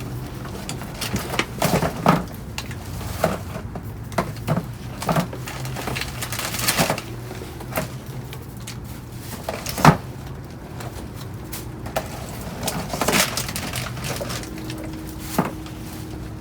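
Rummaging through a dumpster: irregular knocks, clatters and rustles of cans, boxes and bags being handled and moved, over a low steady hum.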